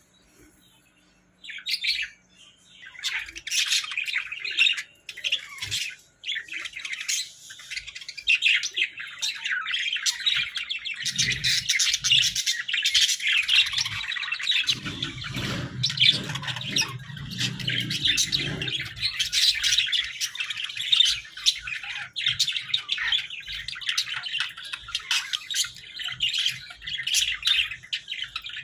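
Pair of Hagoromo budgerigars chattering and warbling: a dense, fast stream of chirps and squawks. The chatter starts sparse and becomes near-continuous after the first few seconds, with a brief low rumble underneath about halfway through.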